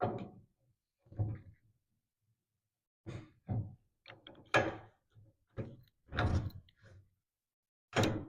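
A run of short, separate metal clunks and knocks, about eight of them at irregular intervals, as the front spindle is pulled off the drop axle and refitted over the kingpin.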